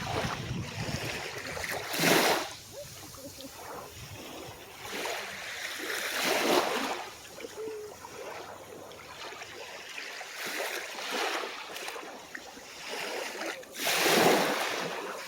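Calm ocean waves washing onto the shore, each wave swelling in and drawing back every few seconds, with the biggest surge near the end.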